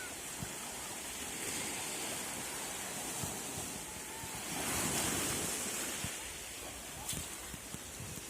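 Sea surf washing onto the shore in a steady rush, with one wave swelling louder about halfway through. Wind buffets the microphone.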